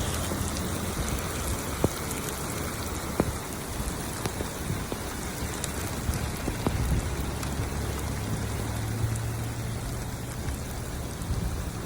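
Steady rain falling: an even hiss with scattered sharp taps of drops striking a surface, over a low rumble.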